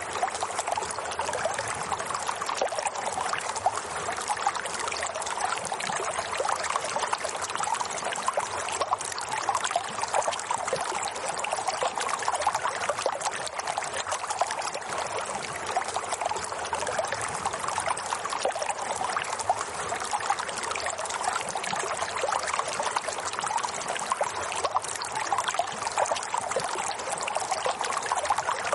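Running water trickling and splashing steadily, like a small stream or brook.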